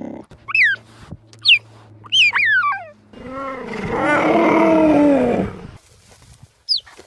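Cheetah calls: several short, high chirps that fall in pitch, then a longer, louder and lower call lasting about two and a half seconds that rises and falls. One more brief chirp comes near the end.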